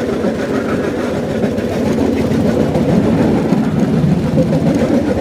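Cambodian bamboo train (norry) running along the rails with a steady, fast rattle that grows a little louder about two seconds in.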